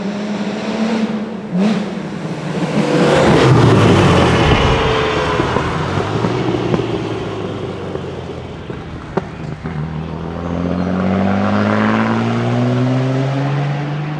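Historic car engines passing on a hillclimb: one car goes by loudest about three to five seconds in, then another approaches accelerating, its engine pitch rising over the last few seconds.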